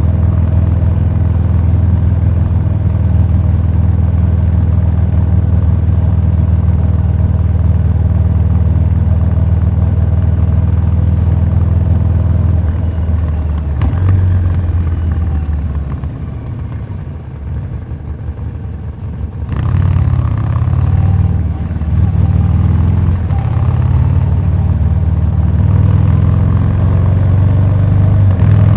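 Harley-Davidson Street 750 V-twin running through a Vance & Hines slip-on exhaust. Its note holds steady, then falls away to a quieter stretch about halfway through. In the second half the engine speed rises and falls with the throttle.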